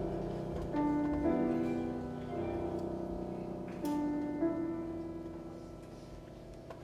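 Solo piano playing a slow, quiet passage in a piano concerto: notes and chords struck every second or so, each left ringing and dying away, growing softer toward the end.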